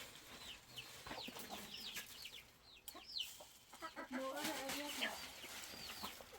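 Chickens clucking, with a steady scatter of short high peeping chirps and a longer, lower wavering call about four seconds in.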